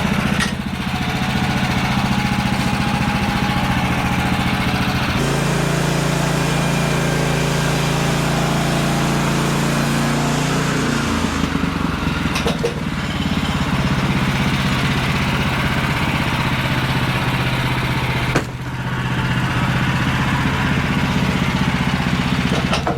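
Engine running steadily. Its pitch and load shift abruptly about five seconds in and again around twelve seconds, with brief breaks near thirteen and eighteen seconds.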